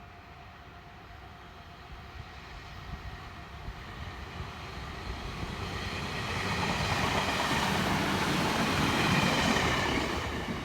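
Meitetsu electric train running past, growing louder over several seconds, loudest for the last few seconds with a layered high whine over the rumble, then dropping off near the end.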